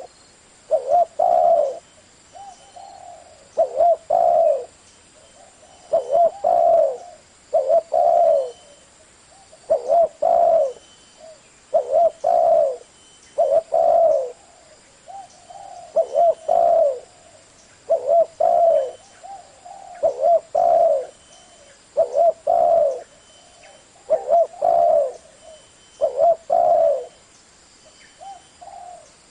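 Spotted dove cooing over and over: a short phrase of low coos repeated about every two seconds.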